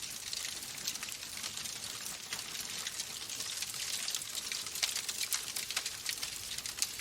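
Fire crackling in a fireplace: a steady hiss full of small snaps and pops, with a couple of sharper pops about five seconds in and near the end.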